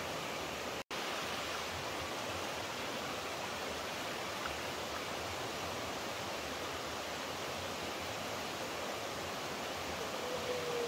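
Steady rushing of flowing water from a stream or waterfall. The sound cuts out for a split second about a second in, and a short falling whistle comes in near the end.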